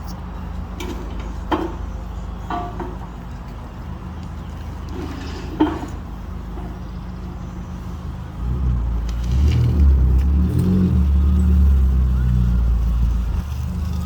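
2013 Ford Fusion SE's 2.5-litre four-cylinder engine with the muffler removed, running steadily, then getting louder about eight seconds in as it revs up and holds the higher revs.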